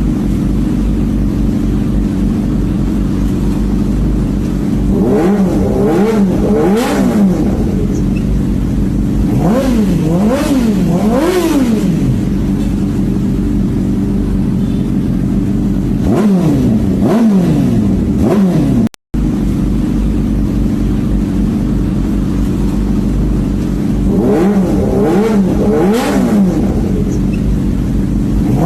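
Big motorcycle with an aftermarket racing exhaust idling loudly, blipped repeatedly so the revs shoot up and fall straight back in quick bursts, several times, with a brief cut-out in the sound partway through.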